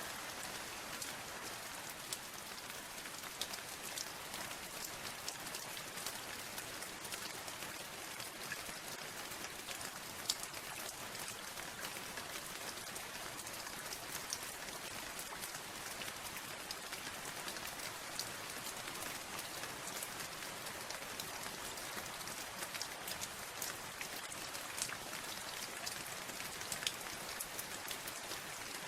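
Steady rain, with many individual drops ticking sharply on a hard surface throughout.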